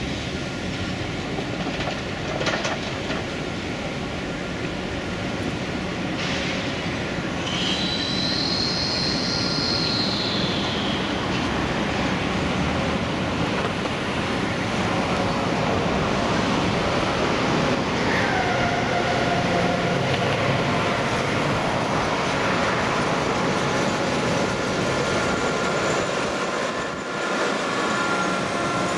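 DB Class 101 electric locomotive and its intercity coaches running past at close range: steady wheel-on-rail noise with a few knocks over the pointwork. A high wheel squeal rises and falls about eight seconds in, and a lower whine falls in pitch around eighteen seconds.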